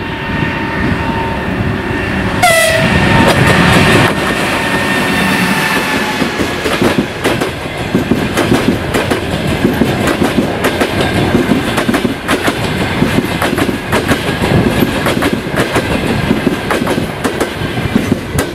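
A passenger train hauled by an electric locomotive passes close by. Its steady tones drop sharply in pitch as the locomotive goes past about two and a half seconds in. Then the coaches' wheels give a long run of rhythmic clickety-clack over the rail joints, which ends as the last coach goes by.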